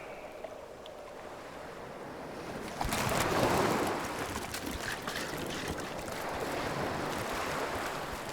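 A rushing wash of noise like surf, faint at first, then swelling suddenly about three seconds in and carrying on unevenly.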